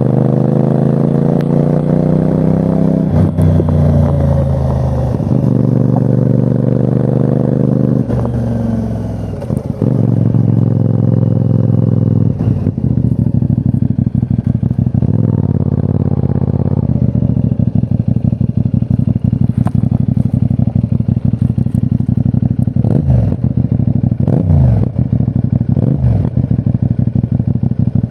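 A 2024 CFMOTO 450NK's parallel-twin engine pulls hard with its pitch rising, dropping twice at gear changes, then winds down about ten seconds in. It settles into a steady low-rev run, with a couple of short throttle blips near the end.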